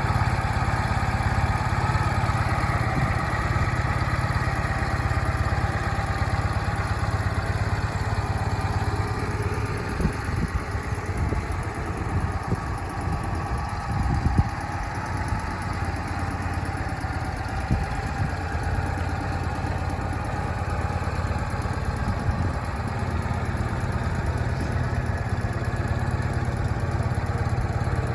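Ural motorcycle's flat-twin engine idling steadily, with a few brief louder spikes around the middle.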